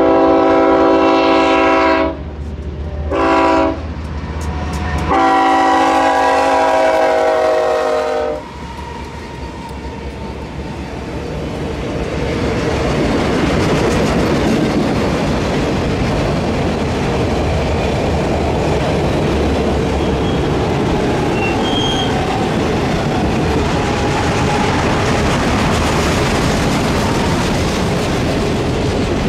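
Freight train locomotive horn blowing a long blast, a short one and another long one, the end of the standard grade-crossing signal. The train then rolls past on the rails, growing louder about twelve seconds in and then holding steady.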